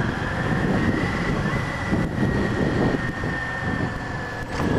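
Motorcycle riding along: wind rushing over the microphone over the running engine, with a thin steady whine that drops slightly in pitch toward the end.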